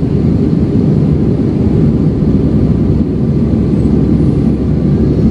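Steady low rumble of an Airbus A320's jet engines and airflow heard inside the passenger cabin, typical of the climb after takeoff.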